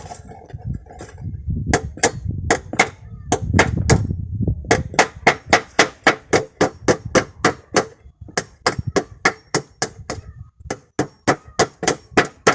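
Hammer driving nails through car-tyre rubber: quick repeated strikes, about three a second, in several runs with short pauses between them.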